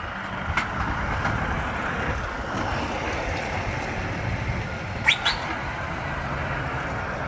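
Heavy trucks' diesel engines running as they arrive, a steady low rumble. There is a short sharp sound under a second in, and two quick rising chirps about five seconds in, the loudest moment.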